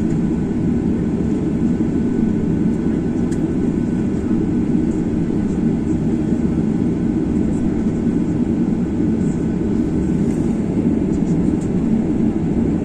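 Steady engine and airflow noise of a Boeing 737-800 heard from inside the passenger cabin: a low, even rumble that does not rise or fall.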